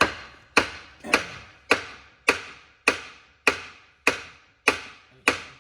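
Steady, even hammer blows on a stuck part of a Ford-o-Matic automatic transmission, a little under two strikes a second, each ringing briefly. The part is jammed, caught on what the workers take for a burr.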